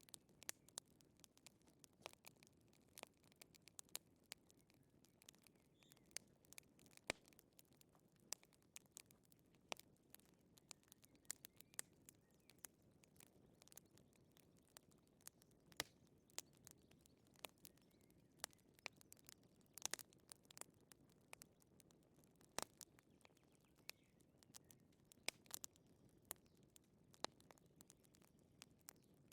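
Wood fire crackling: irregular sharp pops and snaps, several a second, over a faint low rustle of the burning logs.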